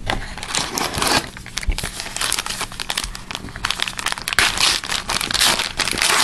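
Wrapper of a hockey trading-card pack being torn open and crinkled in the hands: a run of crackling and rustling with many small sharp clicks.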